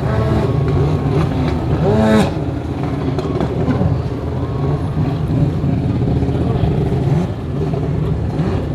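Freestyle jet ski engine running hard and revving, its pitch rising and falling several times, most sharply about two seconds in.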